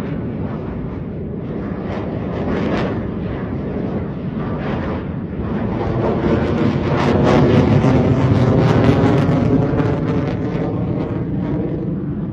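Military jet flying overhead: a loud engine rumble that swells to its peak about seven to nine seconds in, then eases off.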